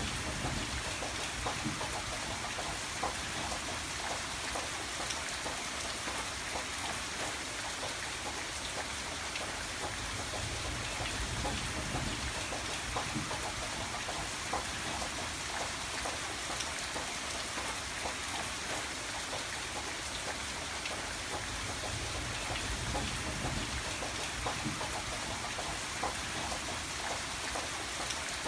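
Steady rain falling and pattering on a surface, with many small scattered drop ticks and no pauses.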